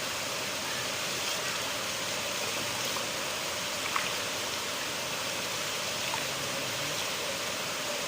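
River water flowing and splashing steadily, a dense even rush with small splashes now and then, one a little louder about four seconds in.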